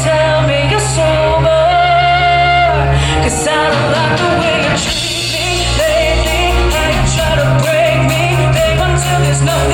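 A live rock band playing with a lead vocalist singing over bass and drums. A steady beat of cymbal hits comes in about halfway through.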